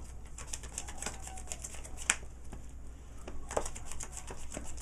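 Trading cards being handled and laid on a table: a run of quick, light clicks and ticks, with a sharper snap about two seconds in and another about three and a half seconds in.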